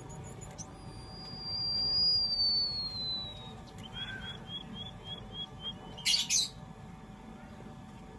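White-headed munia (emprit haji) singing. It gives one long, thin, high whistle that slides slowly downward for about three seconds, then a quick series of about eight short chirps at roughly four a second. A brief, loud, harsh noisy burst follows about six seconds in.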